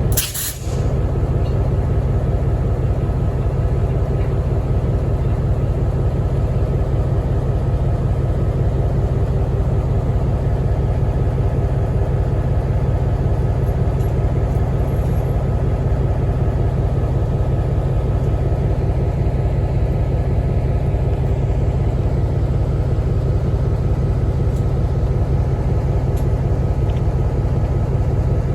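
Steady, loud low rumble of a train running, with a few steady tones above it. A short sharp click comes just after the start.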